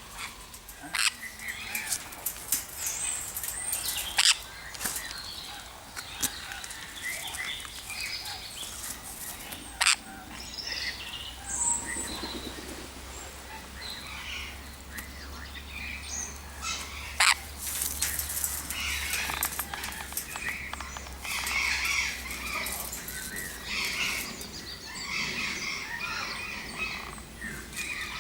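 Many aviary birds chirping and calling all through, with a few sharp clicks or knocks scattered among the calls and a low steady hum in the middle stretch.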